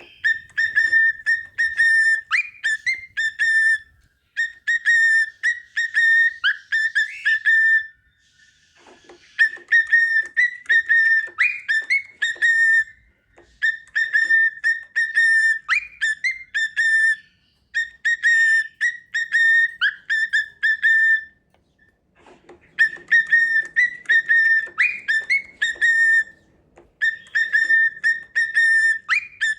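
Cockatiel whistling a tune: the same short phrase of clear, piping notes, repeated again and again with brief pauses between phrases.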